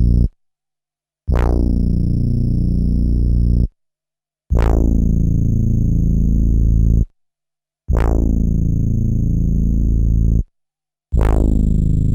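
A low, buzzy synth bass note played back by an SP1200 12-bit sampler, struck four times. Each note lasts about two and a half seconds and is cut off into dead silence. Its brightness falls away quickly after each start, leaving a steady low drone with faint high whines on top.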